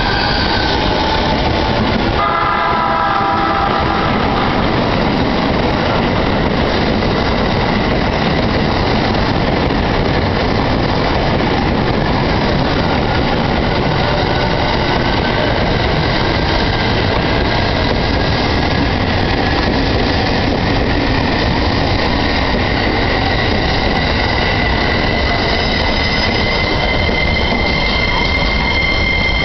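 Electric commuter train pulling out of a station platform, with loud steady running and wheel noise. A short cluster of stepped tones comes about two seconds in, and a motor whine rises slowly in pitch through the second half as the train gathers speed.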